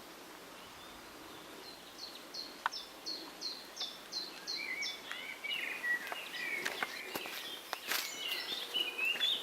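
Songbirds singing in woodland: a run of about eight evenly repeated high notes, then varied chirping notes, with a few sharp clicks.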